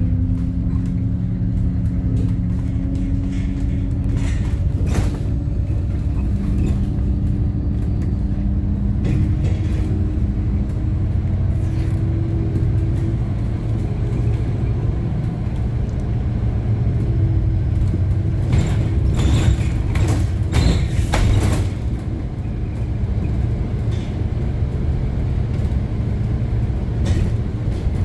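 Bus engine running as the bus drives, heard from inside, a steady low drone whose pitch slowly shifts. A quick cluster of rattles or knocks comes about two-thirds of the way through.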